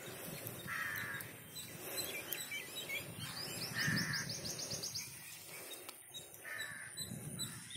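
Birds calling: three short, harsh calls about three seconds apart, and midway a quick run of about ten high chirps.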